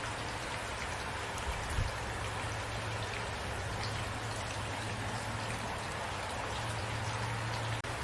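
Steady rain falling, an even hiss with scattered drop ticks and a low rumble underneath, with a couple of slightly louder drops or thuds about a second and a half in.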